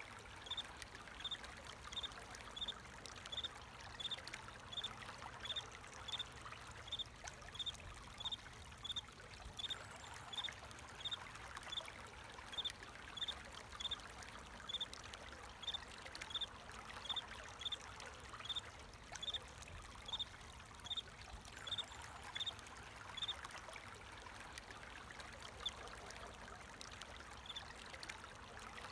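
Water flowing and trickling steadily, with a cricket chirping in short, evenly spaced chirps about twice a second; the chirping stops a few seconds before the end.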